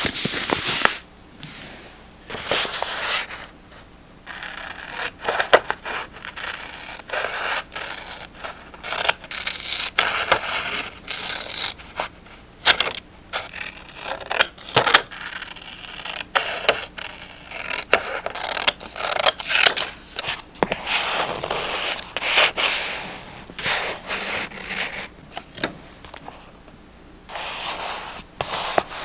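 Journaling paper being handled close to the microphone: irregular rustling and scraping of paper, broken by many sharp clicks and taps.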